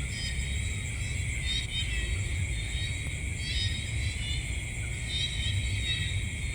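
Night insect chorus: a steady high-pitched trilling, with a short chirping call repeating about every two seconds, over a steady low rumble.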